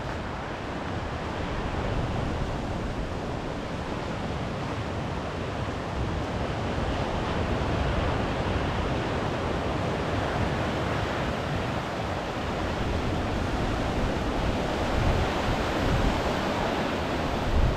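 Waves washing onto a beach in a steady, swelling surge, with wind buffeting the microphone in low rumbles.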